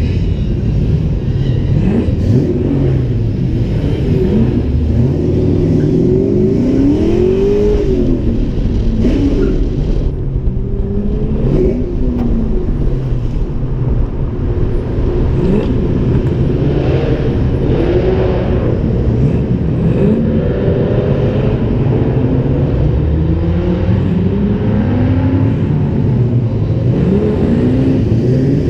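Ford Mustang engine and exhaust heard from outside the driver's window while driving, the revs climbing and dropping again and again as the car accelerates and shifts.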